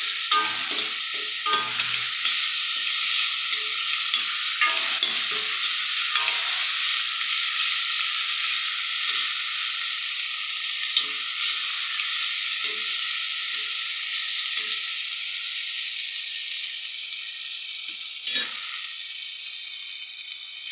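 Chopped tomatoes and spices frying in hot oil in a stainless steel pot, sizzling steadily while a metal ladle scrapes and knocks against the pot as they are stirred, most often in the first third. The sizzle slowly dies down, with one louder clank of the ladle near the end.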